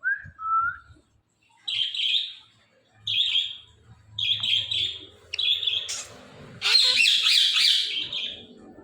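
Indian ringneck parrot calling: a short rising whistle, then a run of short chirps about a second apart, ending in a longer, louder screech near the end.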